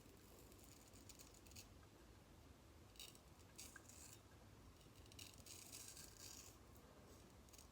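Faint scraping strokes of a Japanese frameback straight razor cutting stubble, in a few short passes.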